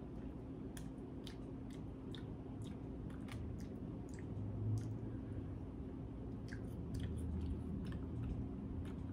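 Chewing a bite of a chocolate-covered marshmallow lollipop, with small irregular mouth clicks and soft squishing throughout.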